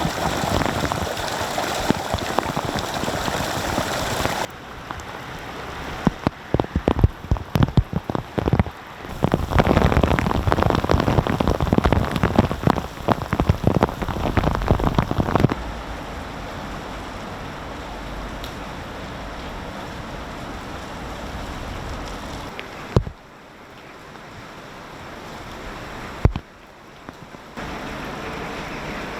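Heavy rain falling, in several differing takes. Through the middle stretch, close drops strike hard and unevenly, and two single sharp knocks come later.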